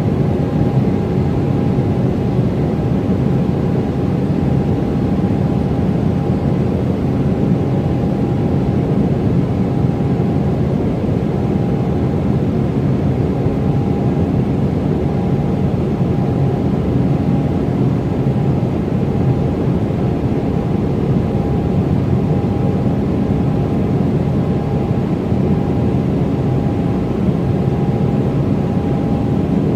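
Embraer E195 jet heard from inside the passenger cabin: the steady roar of its turbofan engines and airflow at high thrust during the takeoff, with a steady whine held on one pitch.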